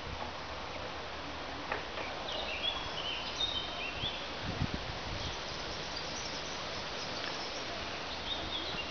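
A songbird singing short phrases of quick notes that step down in pitch, a few seconds in and again near the end, over a steady outdoor hiss, with a couple of low bumps near the middle.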